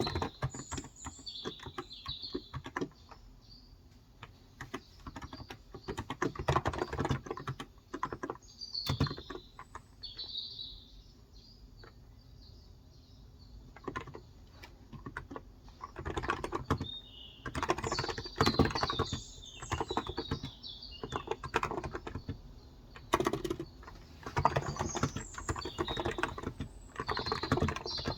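Typing on a Cox Endeavor electrostatic-capacitive tenkeyless keyboard with 35 g switches, in bursts of keystrokes with a lull in the middle. Birds chirp in the background several times.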